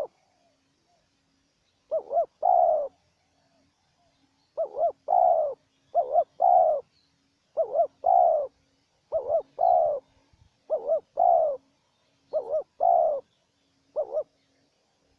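Spotted doves cooing: a phrase of two quick coos and a longer drawn-out coo, repeated about every one and a half seconds, eight times, the last cut short.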